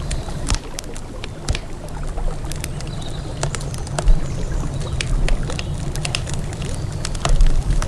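Wood campfire crackling, with frequent sharp pops and snaps, over the steady low rumble of river water.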